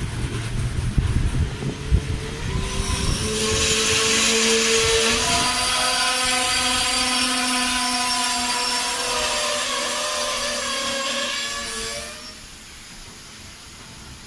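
Train running noise: a low rumble, then a loud, steady pitched squeal with hiss that lasts about nine seconds and cuts off suddenly, leaving a quieter hiss.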